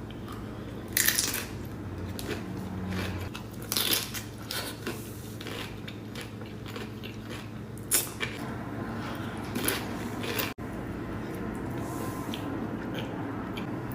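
Close-miked eating of a burrito bowl with Doritos: a few sharp crunches of the chips at irregular moments, chewing, and light clinks of a utensil against the bowl, over a steady low hum.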